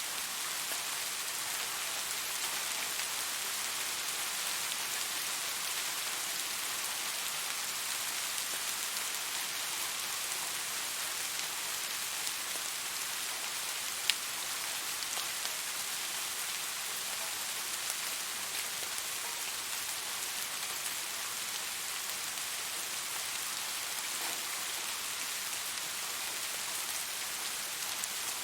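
Steady rainfall, an even hiss of rain on surfaces with scattered individual drops, and one sharp drip or tap about halfway through.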